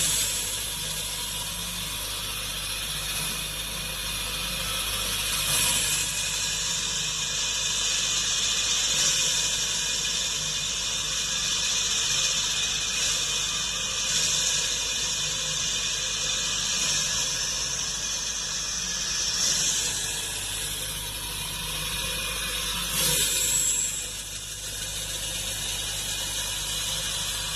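Excavator-mounted hydraulic rock saw, its circular blade cutting rock with a steady high-pitched grinding that swells and eases every few seconds.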